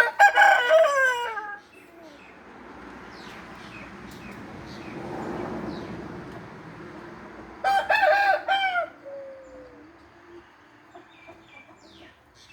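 A rooster crows twice: a long crow at the start and another about eight seconds in, each falling in pitch at the end. In between, a rushing noise swells and fades.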